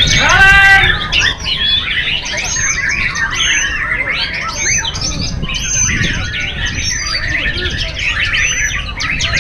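White-rumped shamas singing at once in a dense, unbroken run of overlapping whistles, chirps and trills, with a loud harsh call in the first second.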